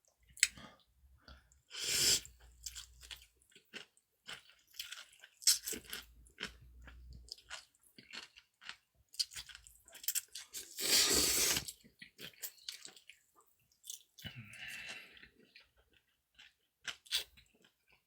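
A person eating close to the microphone: wet chewing and crunchy bites made of many short clicks, with two longer noisy stretches about two seconds and eleven seconds in.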